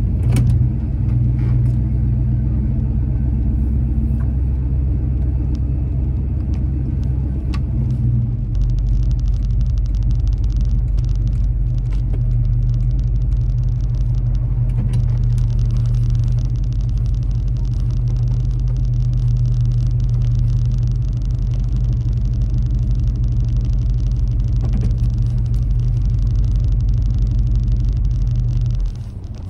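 Chevrolet Chevelle's engine idling with a steady, deep rumble, heard from inside the cabin. The idle note shifts lower about eight seconds in, and the rumble drops away suddenly near the end.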